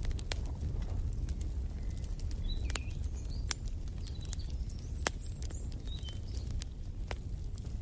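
Wood fire crackling, with frequent sharp pops over a low, steady rumble. A few short, high bird chirps come about two and a half to three seconds in and again around six seconds.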